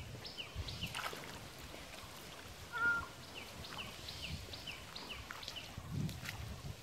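Birds calling: a run of short, quick falling chirps, about three a second, with one louder, short pitched call about three seconds in.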